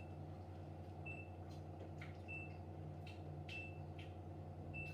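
A short, high electronic beep repeating about every 1.2 seconds over a steady low hum.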